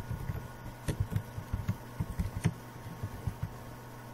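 Typing on a computer keyboard: a run of irregular key clicks and thumps, several a second, over a steady low hum.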